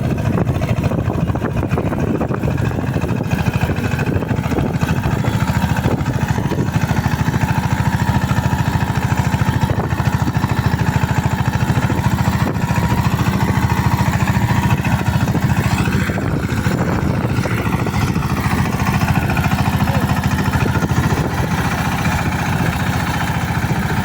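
Eicher 188 mini tractor's single-cylinder diesel engine running steadily, with a rapid even firing beat.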